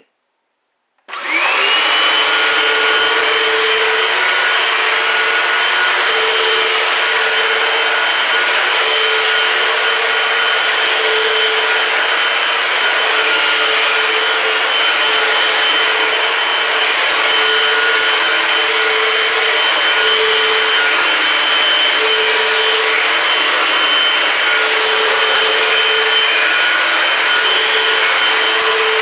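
Eureka AirSpeed Multicyclonic Pet vacuum cleaner switching on about a second in, its motor whine rising quickly to speed, then running steadily.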